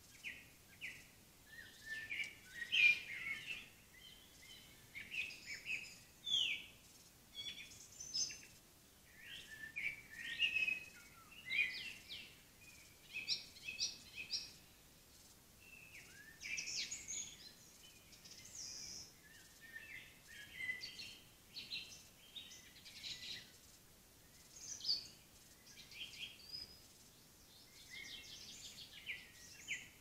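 Songbirds singing: clusters of short, high, chirping phrases come one after another, with brief pauses between them, over a faint steady hiss.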